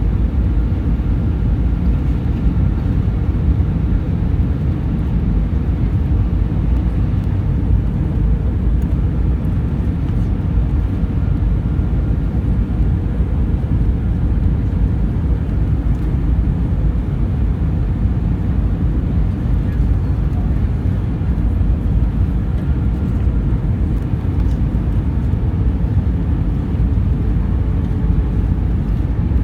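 Steady rumble of airflow and engine noise inside the cabin of a British Airways Airbus A320 in flight, with a faint steady hum over it.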